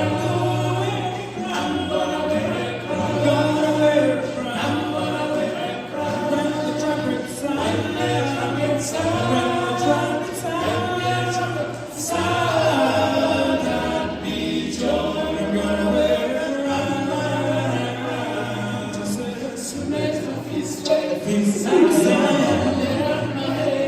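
A cappella gospel group singing in close harmony without instruments, a sung bass line under the upper voices.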